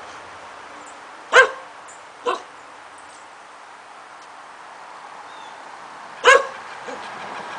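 Short, loud animal calls: two close together about a second apart, then one more a few seconds later.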